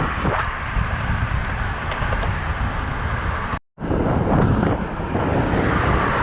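Wind rushing over the microphone of a moving road bike's camera, with a steady rumble of road and traffic noise. The sound cuts out completely for a split second about three and a half seconds in.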